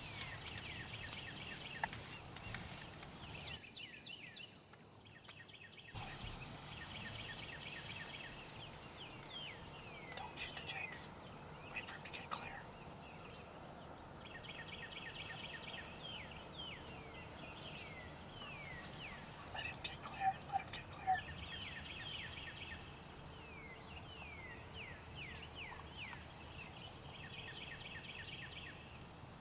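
A steady, high-pitched insect trill, with bursts of short falling bird chirps coming and going over it.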